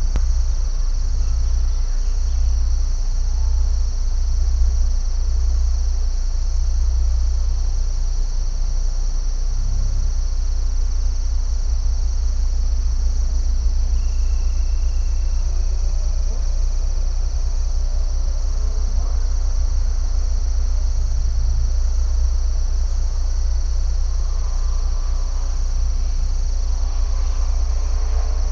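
Steady chorus of insects, a continuous high-pitched shrill, over a deep steady rumble. A few faint, short calls rise through it mid-way and again near the end.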